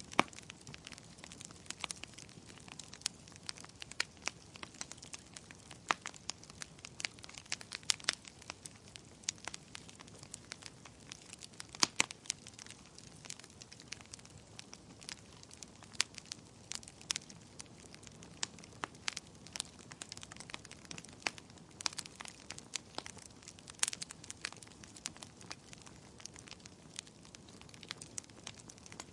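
Wood fire crackling: a steady low hiss of burning wood with frequent irregular sharp pops and snaps, a few louder ones about twelve and twenty-four seconds in.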